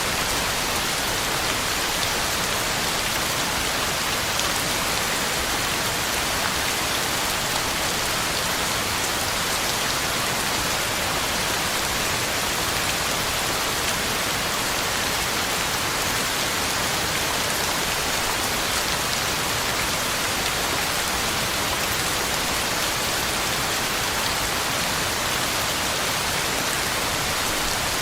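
Heavy rain falling steadily, a constant even hiss of drops on the ground and leaves.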